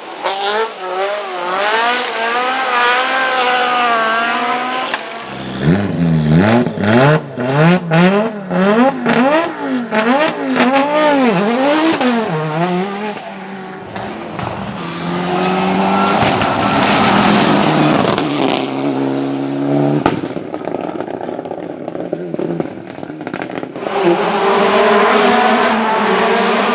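Group B and World Rally Car rally cars driving hard, one after another, engines revving up and dropping again and again with throttle lifts and gear changes. Sharp exhaust pops and bangs come in a short spell after about six seconds.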